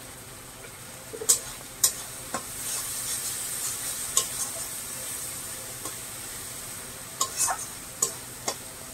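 Spice paste (mustard paste with ground spices) being sautéed in oil in a kadai: a steady sizzle that grows louder a couple of seconds in, with the spatula clinking against the pan about eight times.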